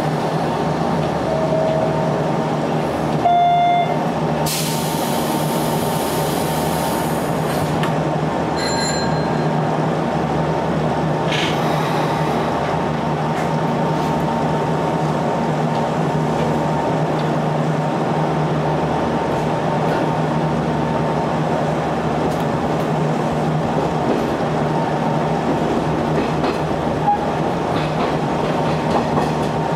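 Sanyo Electric Railway electric multiple unit running at speed, heard from inside the car: a steady rumble of wheels on rail with a constant motor hum. About five seconds in there are a few seconds of high hiss, and brief high-pitched squeals come a little before and after it.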